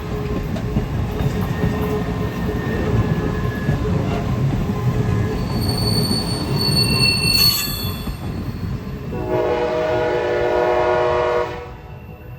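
MARC commuter train rolling past with a low rumble and brief high wheel squeal partway through, then the locomotive's horn sounds one long chord about nine seconds in and cuts off suddenly a couple of seconds later.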